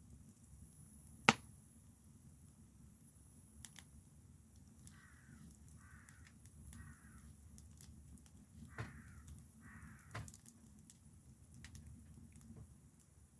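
A crow cawing, a run of five short caws roughly a second apart starting about five seconds in. A single sharp snap about a second in is the loudest sound, with a few fainter clicks here and there.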